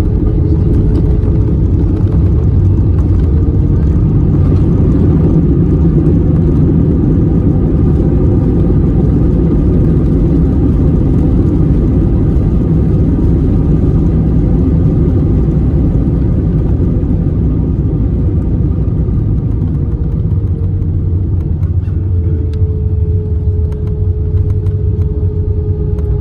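Steady roar of jet engine and airflow noise heard inside the cabin of an Airbus A320 in flight, heaviest in the low rumble, with a faint steady hum above it.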